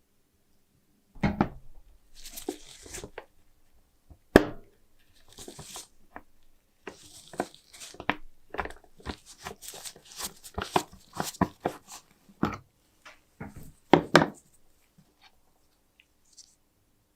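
Irregular clicks, knocks and short scraping rasps from hand work on a small metal trench lighter, with two sharper knocks standing out, one about four seconds in and one near the end.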